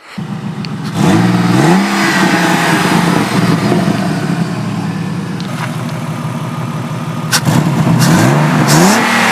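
Turbocharged BMW E36 328i straight-six being revved with the car standing: the revs climb steeply about a second in, hold, and climb again near the end, with two brief sharp sounds in between. Revved without load like this, it builds little boost.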